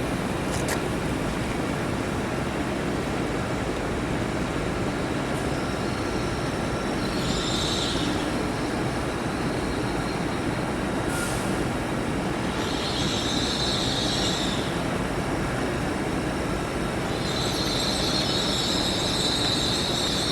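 A train running slowly through the station with a steady rumble, its steel wheels squealing against the rails three times: briefly about seven seconds in, again around thirteen seconds, and for longer near the end.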